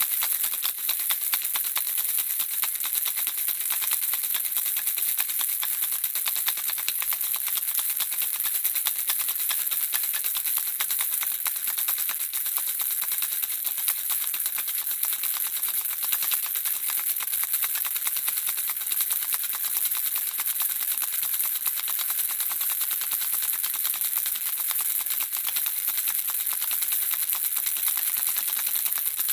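Handheld baby rattle shaken without pause: a dense, steady, high-pitched rattle of the small objects clicking inside it.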